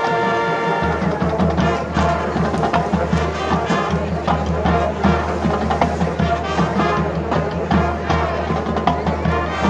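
Marching band playing: a held brass chord ends at the start, then drums beat a steady rhythm under the brass.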